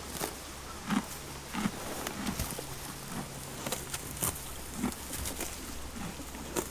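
Horse hooves walking, a regular series of short knocks every half second to a second, over a steady low hum.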